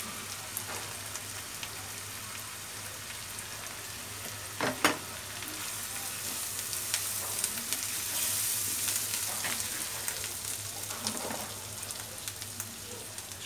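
Onions and spice paste sizzling in hot mustard oil in a pan as turmeric powder is stirred in with a spatula. The sizzling swells in the middle. A quick, sharp double knock against the pan comes about five seconds in.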